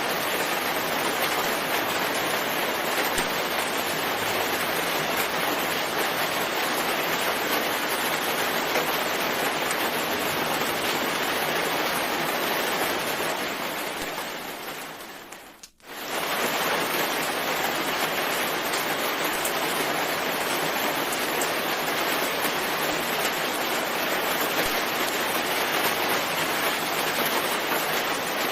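Steady, dense rainfall as an even hiss. A little past halfway it fades down to near silence for a moment and then comes straight back at full level.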